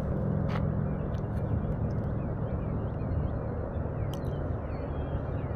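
A steady low engine hum with a few faint bird chirps and a couple of light clicks over it.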